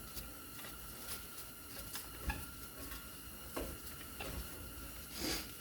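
A few faint, scattered metal clicks and taps as a small clamp is fitted and positioned on a brake caliper, ready to compress the piston.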